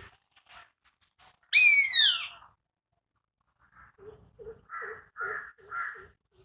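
Indian pitta giving a loud, clear whistled note that sweeps downward, lasting about a second. Near the end a softer series of short calls repeats about twice a second.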